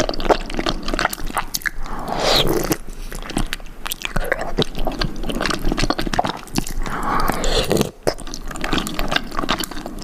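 Close-miked eating of soft-boiled eggs: wet chewing and lip smacking with many small irregular clicks, pausing briefly near the end.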